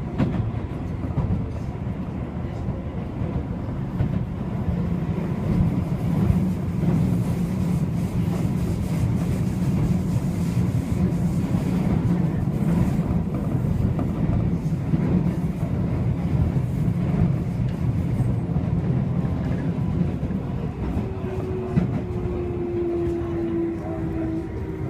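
Running noise inside a Keio 8000 series electric train: a steady wheel-on-rail rumble with faint rail-joint clicks. From about 21 seconds in, a whine from the traction motors falls slowly in pitch as the train slows for the station.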